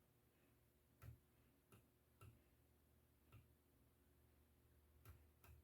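Near silence with about six faint, irregular clicks from the controls of a panel-mounted avionics instrument being worked.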